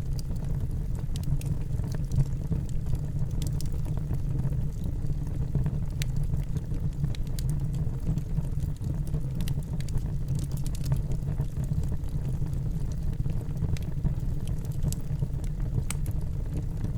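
Fire burning in a fireplace: a steady low rumble of flames with small crackles and pops scattered throughout.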